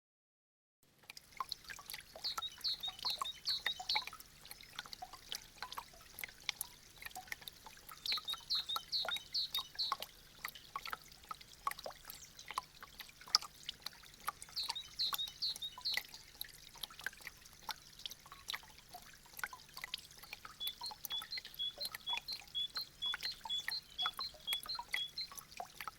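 Meltwater dripping from melting icicles: many small drops falling quickly and irregularly, starting about a second in after a brief silence. Short runs of high, quick chirping notes come over the drips several times.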